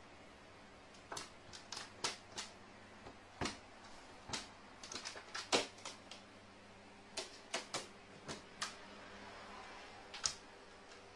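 Irregular sharp clicks and taps, about twenty of them in uneven clusters, some louder than others.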